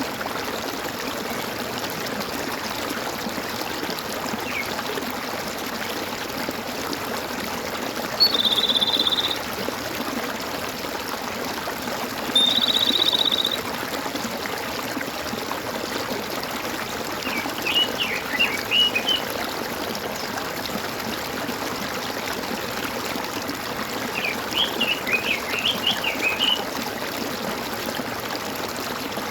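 Small stream gurgling and trickling steadily. Birds call over it: two buzzy trills about a second each, then two quick bursts of chirping notes later on.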